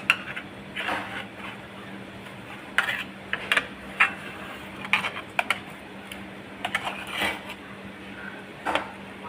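Kitchen dishes and utensils clinking and knocking irregularly, about a dozen separate strokes over a steady low hum.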